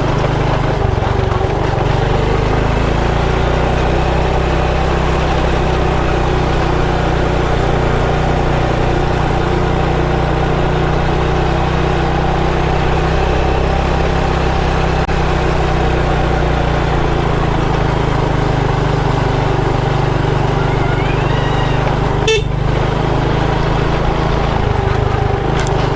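Motorcycle engine running steadily while riding, with the steady rush of road and wind noise. There is a brief sharp click about 22 seconds in.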